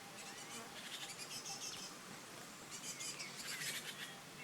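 Small birds chirping and twittering faintly over a light background hiss, in two busier spells, about half a second in and again about three seconds in, with a few short whistled notes.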